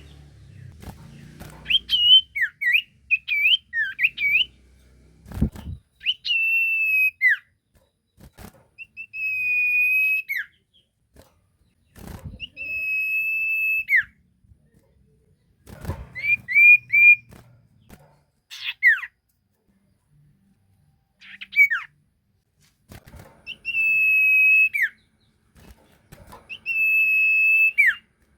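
A sirtu bird singing: phrases of clear whistles, mostly one long steady note that drops away quickly at the end, mixed with short rising-and-falling notes, repeated every few seconds. A few brief thumps fall between the phrases.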